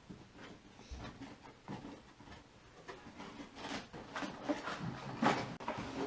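Cardboard shipping box and packaging being opened and handled: irregular rustling and light knocks, a little busier in the second half.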